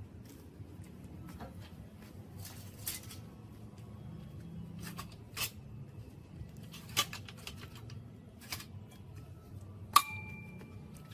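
Metal parts and hand tools being handled: a few sharp clinks and knocks spaced a second or two apart, the loudest near the end ringing briefly like struck metal, over a low steady hum.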